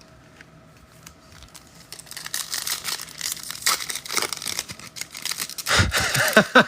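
Plastic wrapper of a trading-card pack being torn open and crinkled, starting about two seconds in as irregular crackling and tearing.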